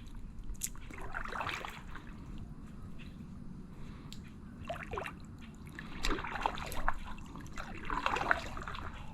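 Kayak paddle dipping into calm water in several strokes, with water trickling and dripping off the blade between them.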